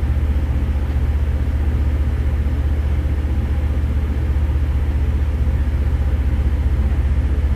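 A steady, low engine hum with a fast, even throb, running unchanged.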